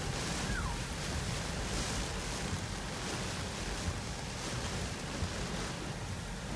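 Hurricane-force eyewall wind blowing hard, a steady dense rushing noise with low rumbling from the wind buffeting the microphone.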